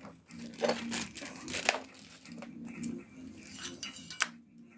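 Crinkling and rustling of something being handled, with a few sharp clicks.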